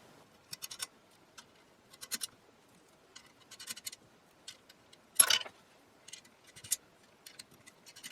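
Scattered light clicks and scratches of small hardware and hand tools being handled while wiring a 1920s radio receiver, with one sharper click about five seconds in.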